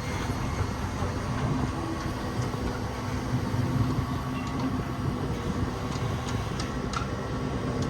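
Develon excavator running steadily, its engine and hydraulics making a continuous low rumble with a few held tones and occasional faint clicks.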